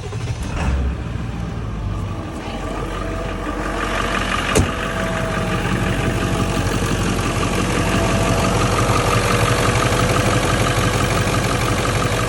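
Ford 7.3L Powerstroke V8 turbo-diesel idling just after a cold start, with one sharp click about four and a half seconds in. This is the engine the owner is chasing an intermittent rattle/knock in, which he says appears only once it warms up.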